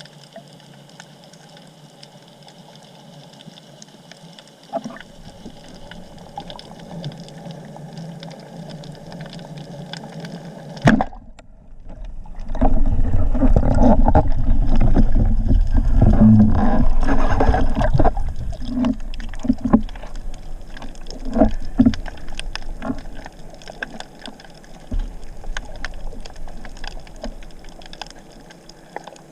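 Water sounds picked up by a camera in or at the water: a quiet bed of scattered sharp clicks, then a sharp knock about eleven seconds in followed by several seconds of loud rushing and gurgling water with a low rumble, fading back to clicks near the end.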